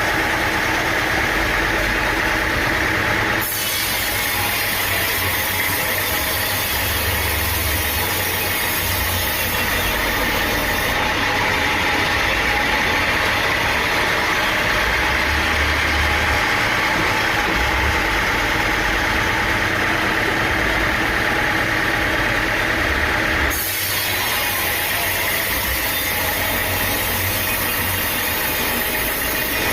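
Sawmill machinery running steadily, an engine hum with a steady higher whine over it. The sound changes abruptly twice, about three seconds in and again near the end.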